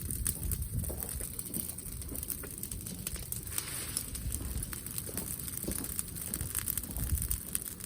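Brushwood bonfire crackling, with frequent irregular sharp pops over a low rumble.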